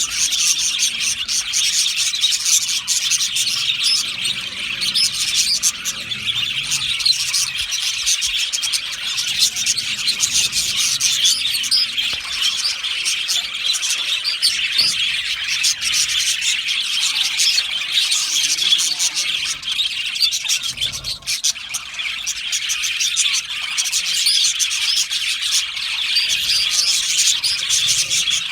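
A colony of budgerigars chattering and chirping all at once, a dense unbroken mass of high, warbling calls.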